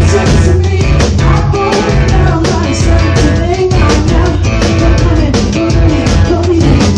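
A live rock band playing loudly, with a drum kit keeping a steady beat under guitar and bass and a voice singing.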